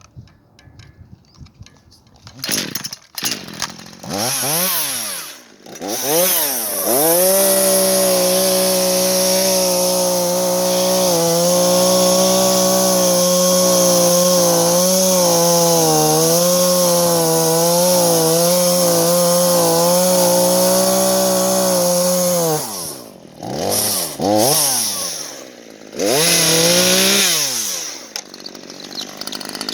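Chainsaw engine starting up a few seconds in and revved up and down, then held at high revs for about fifteen seconds with the pitch wavering and dipping as it cuts into wood. It then drops off, is revved in two short bursts, and falls back to a low idle near the end.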